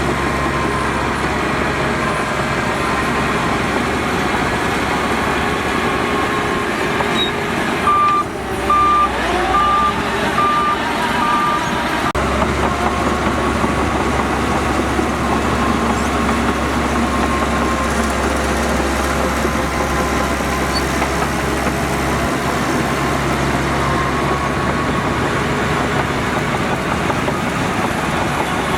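Heavy diesel earthmoving machinery running steadily at a dirt-filling site. About eight seconds in, a reversing alarm beeps about six times at an even pace.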